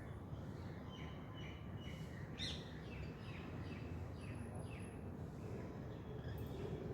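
Birds chirping and calling: a few short chirps, one sharper call a little over two seconds in, then a quick run of short chirps, over a steady low background rumble.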